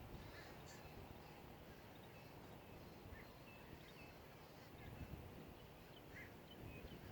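Faint, scattered short bird chirps over a low, steady outdoor background.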